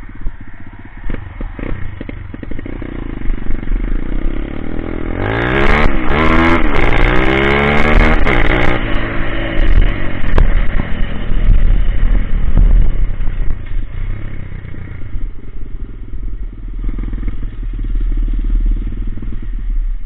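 Coolster Speedmax 125 pit bike's single-cylinder four-stroke engine under way. It revs up and down several times between about five and nine seconds in, with sharp knocks mixed in, then runs on at a steadier throttle.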